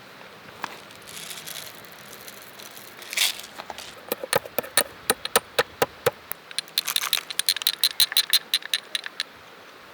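Kitchen utensils during food preparation: a scrape, then a run of sharp knocks about five a second, then a quicker run of clinking with a ringing tone that stops near the end.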